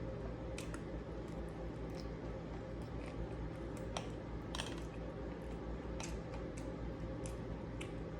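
Scattered light clicks and taps of eating utensils against a plate during a meal, a dozen or so spread unevenly through the stretch, over a steady low hum.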